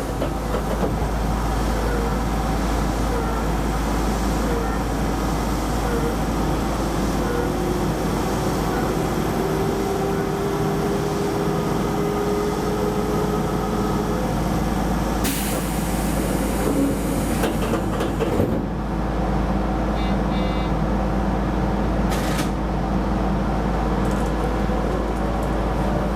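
Keisei Line electric commuter train running along the track: a steady rumble of wheels on rail with a faint electric motor whine that glides in pitch, rising near the end as the train picks up speed. Two brief hissing rushes about two-thirds of the way through.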